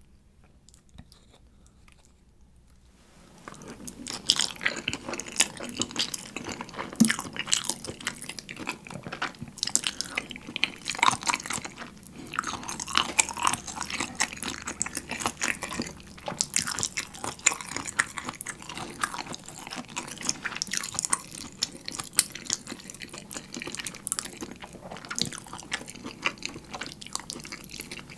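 Close-miked chewing of a mouthful of shrimp cream pasta, thickened with melted mozzarella, as a dense run of quick, irregular wet mouth clicks. It starts about three seconds in, after a near-quiet pause.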